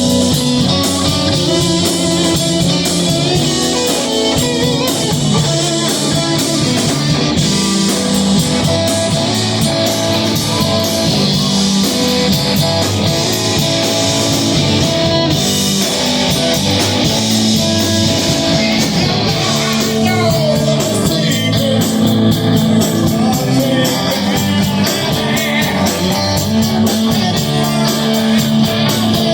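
Rock band playing a song, with guitar prominent over a moving bass line.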